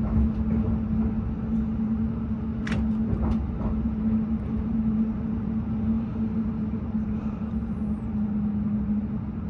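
Electric passenger train running at speed, heard from inside the carriage: a steady low rumble of wheels on rails under a constant hum, with a couple of sharp clicks about three seconds in.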